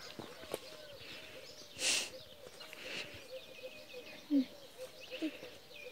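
Birds calling outdoors: a short, low arched note repeated several times a second, with faint higher chirps over it. A brief hiss cuts in about two seconds in.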